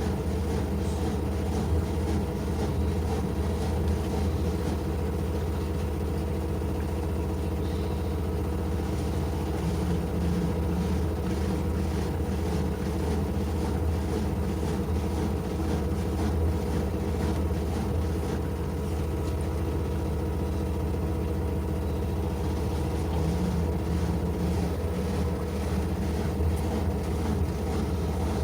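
LG washing machine running through a wash, a steady low motor hum with no change in level.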